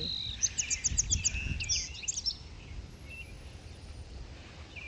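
Small songbirds chirping: a quick run of about six high chirps in the first second, more chirping up to about halfway, then only a few faint calls, over low steady background noise.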